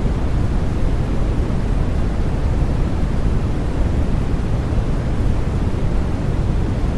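Steady white noise for lulling a baby to sleep: an even, deep rush with most of its sound low down and little hiss, unchanging throughout.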